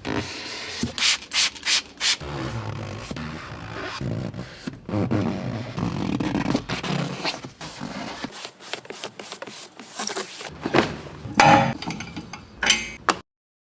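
Hand scrubbing of soapy car bodywork: irregular rubbing and scraping strokes across the wet surface, with a short silent gap near the end.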